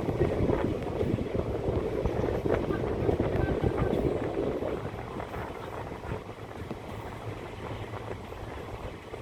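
Rumbling vehicle noise with wind on the microphone, loud at first and dying down about halfway through to a lower steady rumble.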